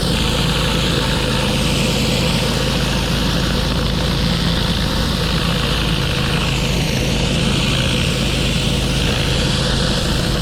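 Pressure washer at work on concrete: high-pressure water spray hissing over the steady run of the machine's engine. The spray hiss strengthens suddenly at the start and then holds steady.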